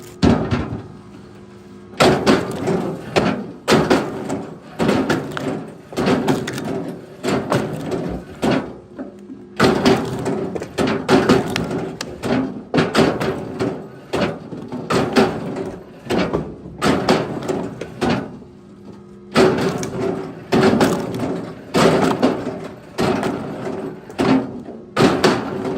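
Firewood being worked: repeated sharp wooden knocks and clatter, several a second in irregular clusters with short pauses, over a faint steady hum.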